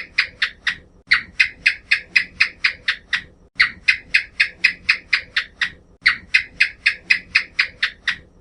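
An animal calling in a rapid series of short, high chirps, about five a second, in runs of about two and a half seconds separated by brief pauses.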